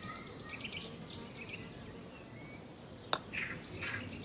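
Faint bird chirps: short high calls and a few quick falling whistles over a low background hiss, with a single sharp click about three seconds in.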